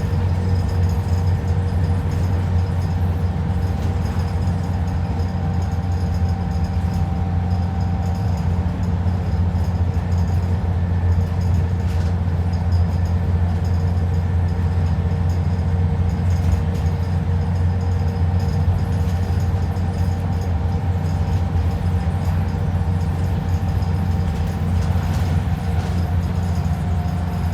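Alexander Dennis Enviro 400 double-decker bus heard from inside, its diesel engine running with a steady low drone and a faint steady whine above it.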